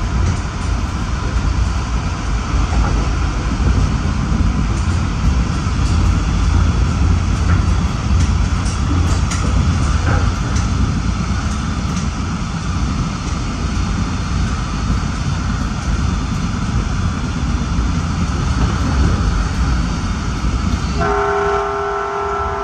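Caltrain commuter train running at speed, heard from the front cab: a steady loud rumble of the train on the rails. Near the end the train's horn starts sounding, a several-note chord held steady.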